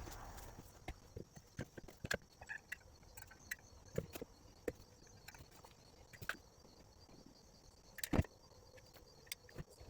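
Scattered light knocks and taps of wooden pieces being handled and set in place, with a sharper knock about eight seconds in.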